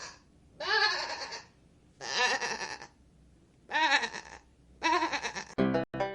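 Goat bleating in a series of wavering calls, about four of them, each under a second long. Near the end, a short run of keyboard music notes starts.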